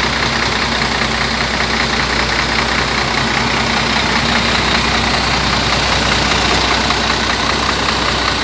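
Diesel engine of a Scania 124 tour bus running steadily, fitted with a newly set-up turbocharger.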